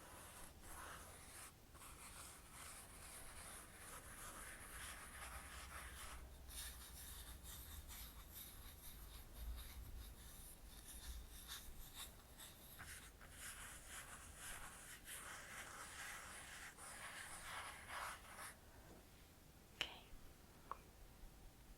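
Stippling brush working fluid foundation in small circular movements: a soft, continuous scratchy brushing that stops about three-quarters of the way through, followed by a couple of faint clicks.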